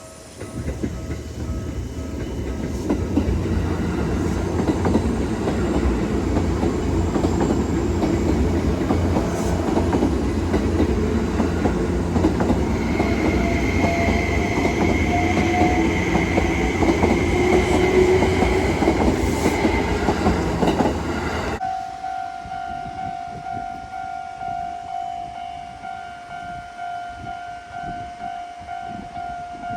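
An electric train running past a level crossing, loud and steady, while the crossing's warning bell rings. After a sudden cut about two-thirds of the way through, only a level-crossing warning bell is heard, ringing in a steady repeating pattern.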